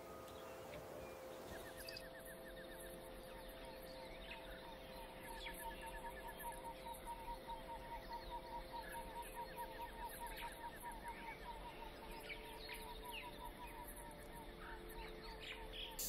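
Birds calling over a faint forest background: a long run of short repeated notes, about four or five a second, strongest in the middle, with brief rapid trills above them now and then.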